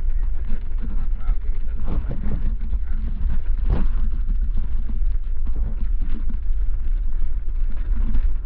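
Waterfall rushing steadily, heard as a loud, deep rumble with a hiss above it.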